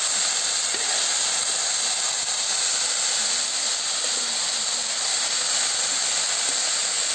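Steady sizzle of neem flowers, onion and tomato frying in oil in a steel kadai as a spatula stirs them.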